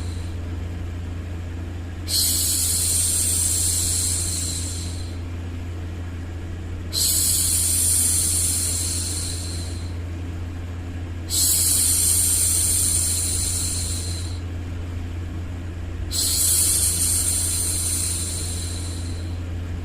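A woman's long 'shhh' hushing sounds for soothing a baby, four of them, each about three seconds long and repeating roughly every four to five seconds. Underneath is a steady bed of white noise with a low hum.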